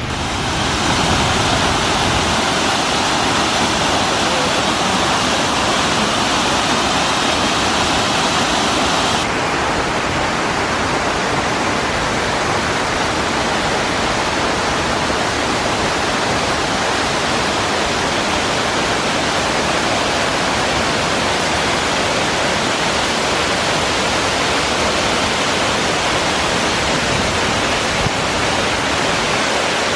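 Pratts Falls, a tall waterfall, rushing in a loud, steady roar of falling water. The high hiss softens a little about nine seconds in.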